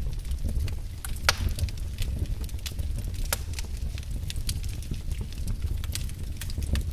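Wood fire burning in a fireplace: a steady low rumble of flame with irregular crackles and pops, two sharper pops about one and three seconds in.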